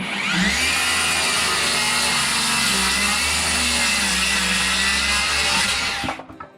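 Electric power saw spinning up and cutting through a 2x4, its whine rising at the start, dipping under load and stopping about six seconds in.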